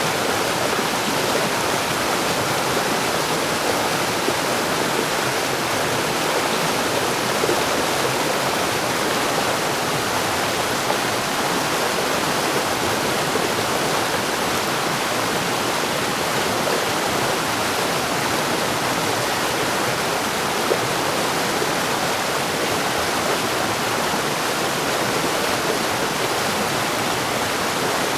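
Mountain stream rushing over rocks: a steady, even splashing and gurgling of water.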